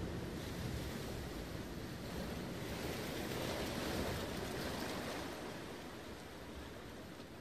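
Sea waves washing in: a soft hiss of surf that swells to a peak about halfway through and then eases off.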